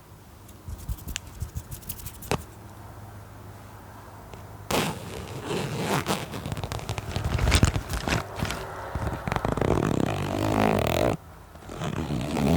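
Close-miked ASMR trigger sounds: a few sharp taps in the first couple of seconds, then rough, continuous scratching on a surface from about five seconds in until shortly before the end.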